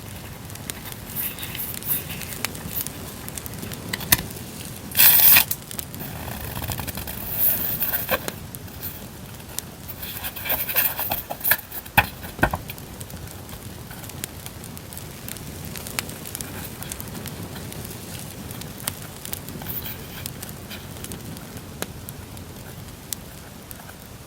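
Campfire crackle laid under the whole stretch as a background bed, with several bursts of rustling and crinkling as paper stationery and its packaging are handled; the loudest comes about five seconds in, with more between about ten and twelve seconds.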